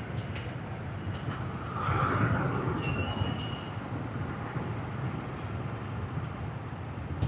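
City motorbike traffic: the steady engine rumble of the ridden motorbike and the scooters around it. About two seconds in, it swells as a vehicle passes close by, and there are a couple of brief high squeaks.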